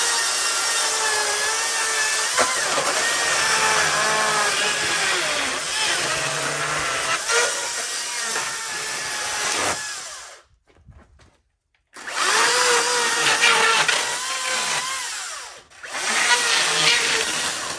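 Makita cordless electric chainsaw, running on two 18-volt batteries, cutting slab wood: a high motor whine that dips and recovers in pitch as the chain bites. It runs for about ten seconds, stops briefly, then makes two shorter cuts.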